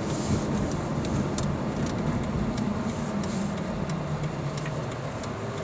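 Car engine and road noise heard from inside the cabin: a steady low hum, with light, irregular ticks scattered through it.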